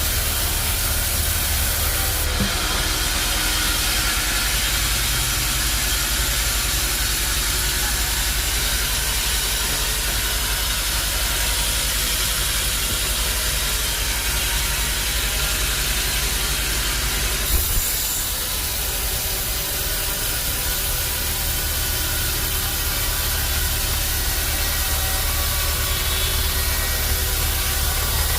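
Band sawmill machinery running steadily: a low engine-like hum under a constant hiss. There is a brief knock about 17 seconds in, after which the sound shifts slightly.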